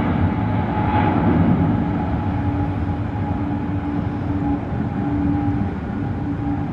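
Jet airliner engines running: a steady low rumble with a held whine over it, slowly easing in loudness.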